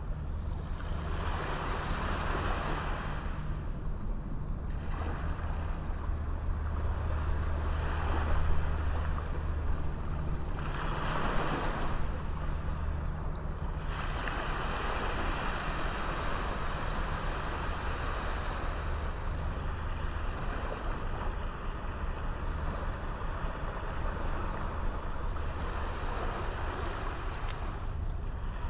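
Sea waves breaking and washing up a beach, the surf hiss swelling and easing several times, over a steady low rumble.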